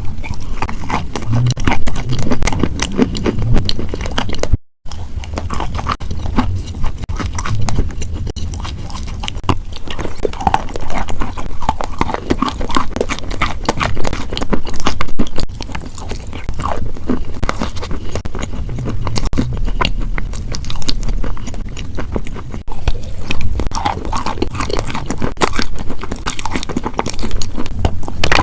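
Close-miked chewing and crunching of crunchy food, with dense irregular crackles and bites and a brief dropout about five seconds in.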